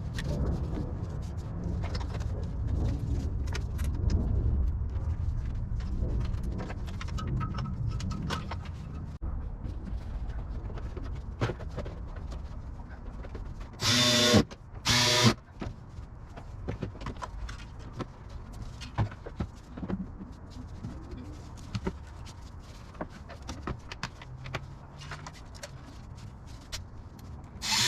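Work on a car's engine bay during alternator reinstallation: scattered metal clicks and clanks of tools over a low rumble, with two short, loud mechanical bursts about halfway through.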